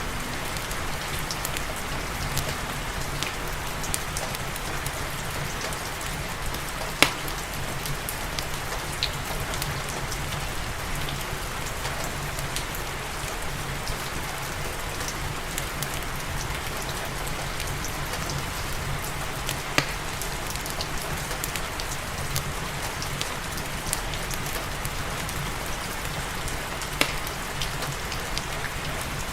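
Steady rain mixed with the scattered sharp crackles of a wood fire burning in a fireplace; the loudest crackle comes about a quarter of the way through.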